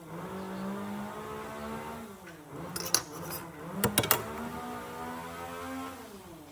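An electric power tool's motor running at a steady pitch, dipping and picking up again about two seconds in, then winding down near the end. A few sharp clicks or knocks come a little after the middle.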